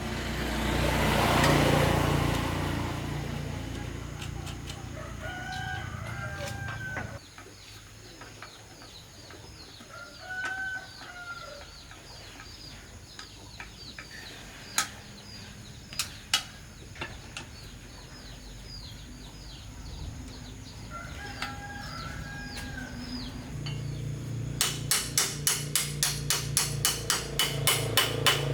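A rooster crowing three times, with small birds chirping throughout. A rushing hiss fills the first few seconds, and near the end a fast run of hammer strikes begins, about three or four a second.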